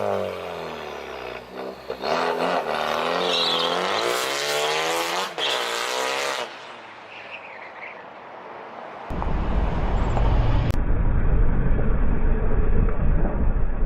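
2015 Ford Focus ST's turbocharged 2.0-litre four-cylinder, straight-piped through an exhaust cutout, revving with its pitch climbing and falling through the gears. About nine seconds in, a louder, deep rumble takes over.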